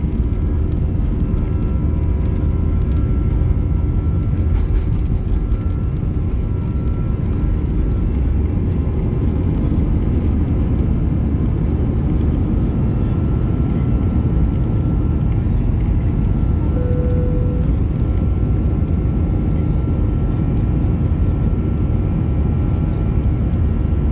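Airliner jet engines heard from inside the passenger cabin: a steady, loud, deep rumble with a faint, even whine above it. A short single tone sounds about 17 seconds in.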